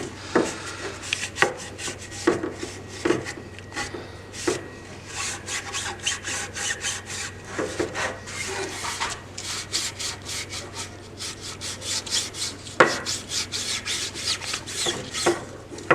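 Wet cloth rubbing over the sanded surface of a 3D-printed plastic sword, in many short, irregular wiping strokes.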